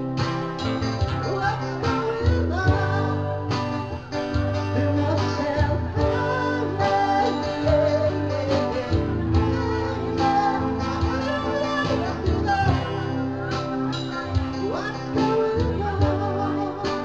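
Live music: guitar playing over a steady beat, with a voice singing.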